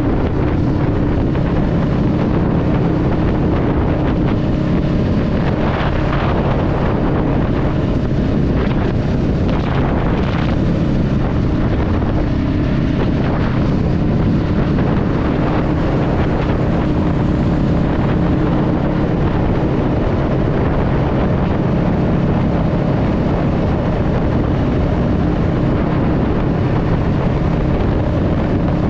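Honda Rebel 500's parallel-twin engine running at a steady cruising speed, with wind rumbling on the microphone.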